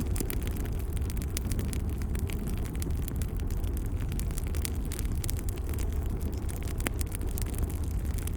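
Wood fire in a fireplace crackling, with scattered small pops over a steady low rumble and one sharper pop about seven seconds in.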